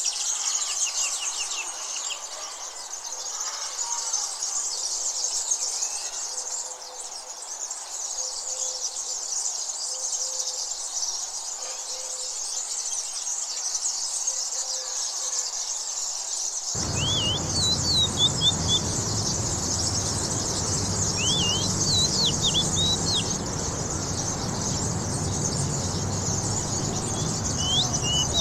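Wild birds chirping and calling over a dense, high shimmering chorus. A soft low call repeats about once a second in the first half. About two-thirds of the way through, the sound changes abruptly to a low rushing noise, like water or wind, with short rising and falling chirps over it.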